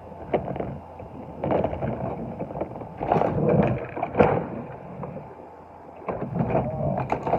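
Irregular light clicks, clacks and rustles of small diecast toy cars and their display case being handled, in short clusters with pauses between.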